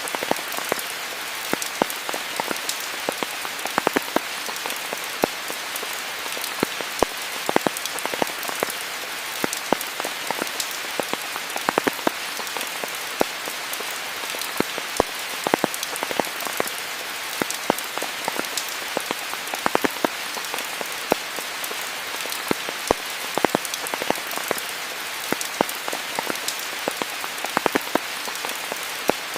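Steady rain falling, a constant hiss with many close, irregular drops striking leaves and surfaces.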